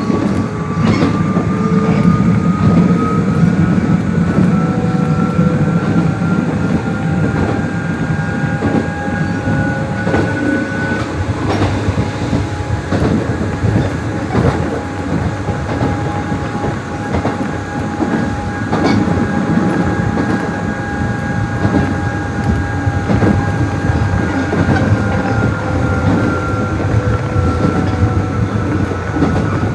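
Nishitetsu 600-series electric train running: the traction motors and gears whine, rising in pitch as it picks up speed over the first ten seconds or so, holding steady, then falling near the end as it slows. Wheels click over rail joints throughout, over a steady running rumble.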